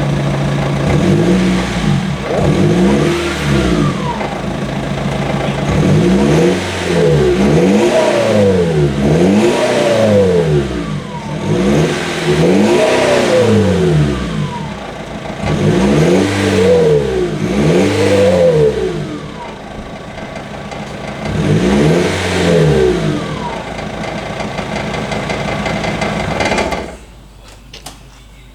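Car engine idling and being revved over and over through its exhaust, with about ten quick blips that each rise and fall in pitch. It settles back to idle between blips and is switched off near the end.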